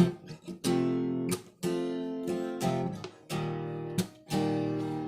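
Acoustic guitar strumming chords in a slow pattern, each strum left to ring for a moment before the next.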